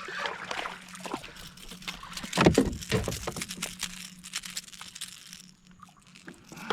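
Water sloshing and splashing against a fishing kayak, with scattered knocks and clicks from handling on board and one loud thump about two and a half seconds in.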